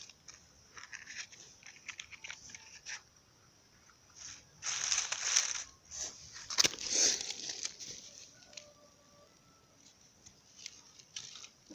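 Dry scraping and crackling from handling campfire kindling and matches: scattered small clicks and rustles, with two louder scratchy bursts about five and seven seconds in.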